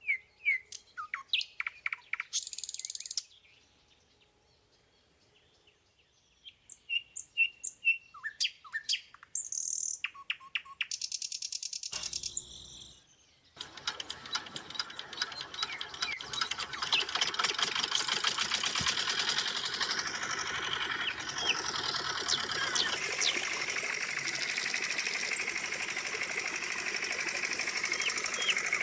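Birds chirp in scattered clusters of short, falling calls. About halfway through, the small motor of a DIY model tractor's water pump starts and runs with a steady, fast buzz.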